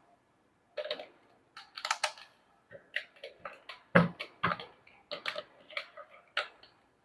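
Hard plastic toy pieces being handled, giving a series of irregular clicks and clacks, with the loudest knock about four seconds in.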